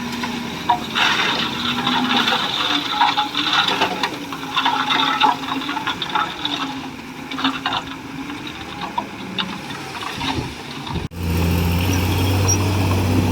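Komatsu D41E bulldozer's diesel engine working under load, its pitch wavering, over a dense clatter and cracking of tracks and pushed material. About eleven seconds in the sound changes abruptly to a steadier, lower engine drone.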